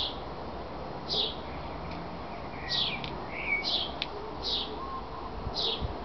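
Great tit calling: a run of short, high chirps, each falling in pitch, about one a second, with a couple of lower notes in the middle. A sharp click comes about four seconds in.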